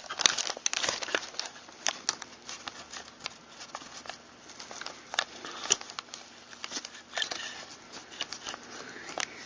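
Irregular sharp clicks, small knocks and light rattling of shotgun parts being handled and fitted together during reassembly of a Mossberg pump shotgun.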